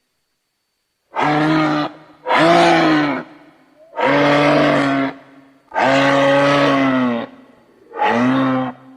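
A series of five harsh, pitched animal calls, each lasting about a second with a pitch that arches slightly, separated by short pauses: sound effects made to voice the extinct Hagerman horse (Equus simplicidens).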